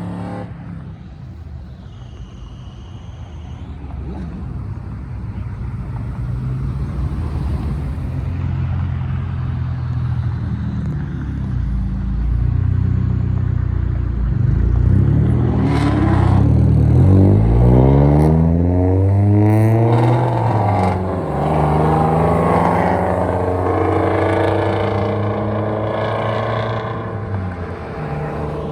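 A car engine running low, then revving hard and accelerating away, its pitch climbing steeply in the loudest stretch just past the middle, with another rise a few seconds later before it fades.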